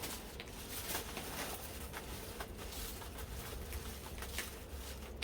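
Aluminium foil crinkling as it is wrapped by hand around a food parcel, a run of small irregular crackles over a low steady rumble.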